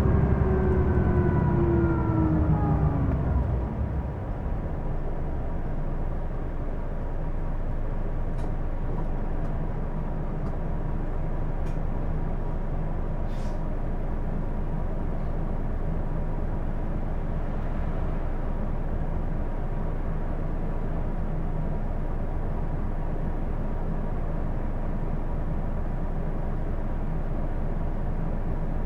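Hino Blue Ribbon II city bus's diesel engine heard from inside the cabin, its pitch falling over the first few seconds as the bus eases off, then a steady low rumble with a thin constant whine, and a few faint clicks in the middle.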